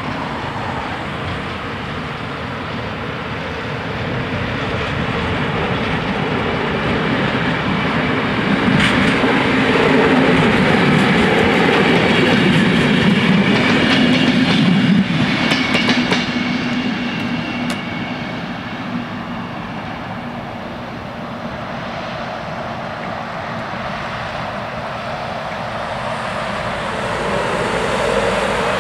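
Västtåg X11 electric multiple unit train approaching and passing over a level crossing, loudest in the middle with wheel clatter over the rail joints, then fading. Level crossing warning bells ring underneath, and near the end a lorry drives across.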